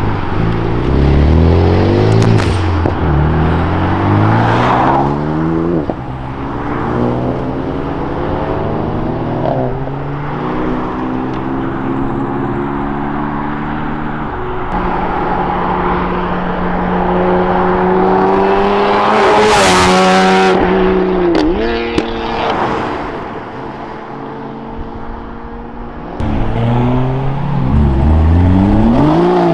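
Modified cars accelerating away one after another, engine notes climbing in pitch and stepping down at gear changes. About twenty seconds in, a short loud burst of noise, then another car revs up and accelerates near the end.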